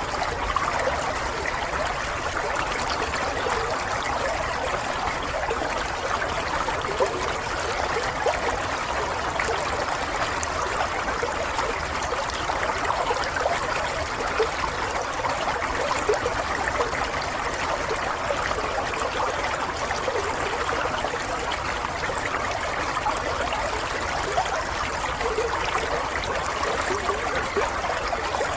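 Water running and trickling steadily, like a small stream over stones, with a constant splashing texture.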